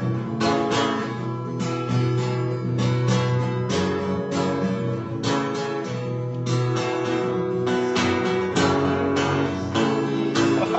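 Acoustic guitar strumming chords in a steady rhythm, amplified through a DI box into the PA.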